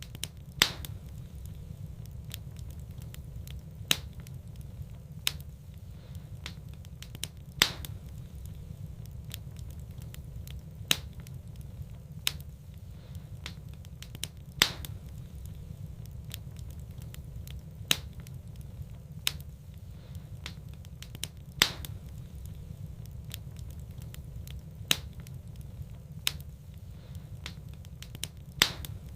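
Wood fire crackling in a fireplace: sharp pops every one to three seconds over a steady low rumble.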